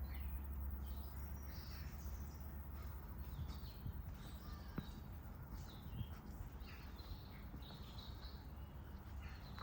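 Birds chirping and calling in short scattered notes over a steady low rumble, with a couple of sharp clicks about five and six seconds in.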